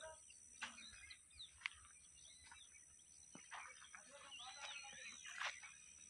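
Small birds chirping faintly: a few short, arching calls, with a few light clicks.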